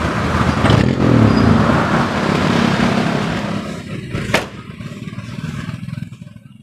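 1990 Daihatsu Charade CX engine just started and running, loud at first and then settling to a quieter, smooth idle over the last few seconds, with one sharp click about four seconds in.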